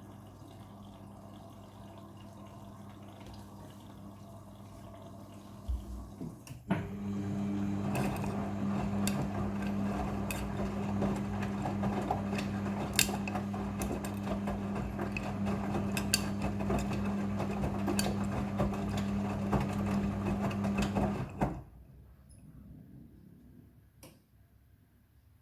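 Front-loading washing machine running with a steady hum and water sounds. The hum gets louder about seven seconds in, with scattered clicks, then cuts off suddenly near the end.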